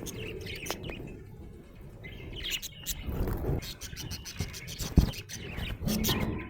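Budgerigar chirping and chattering in quick short notes, with a sharp tap about five seconds in.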